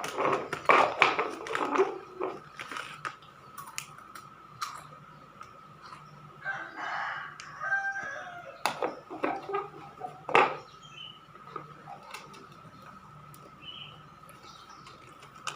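Battery-powered walking robot cat toy running: a steady thin whine from its small motor, with clicks and knocks from its moving parts and handling, and one short pitched call about seven seconds in.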